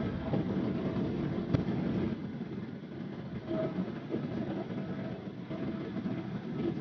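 Cabin noise inside a Boeing 777-300ER: a steady low rumble with light rattling, and a single sharp click about a second and a half in.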